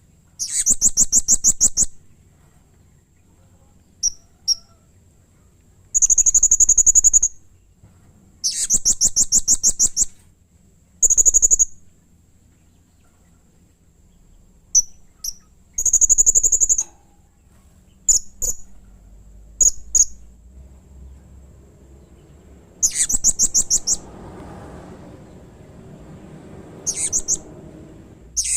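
Blue-crowned hanging parrot (serindit) calling: bursts of rapid, high-pitched trilled chips, each about a second long, about seven times, with single short chips between. The calls are harsh.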